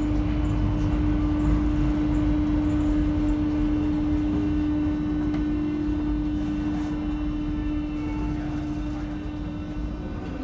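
Paris Métro line 7 train (MF 77 stock) running on the rails, heard from inside the car: a steady low rumble with a constant hum. The rumble eases gradually over the second half as the train loses speed.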